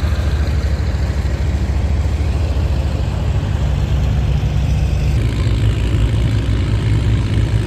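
Antique farm tractor engine running steadily. Its pitch rises about three seconds in and eases back a little about five seconds in.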